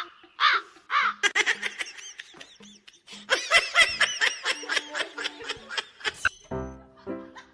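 High-pitched giggling laughter in quick repeated bursts. Background music with drums comes in near the end.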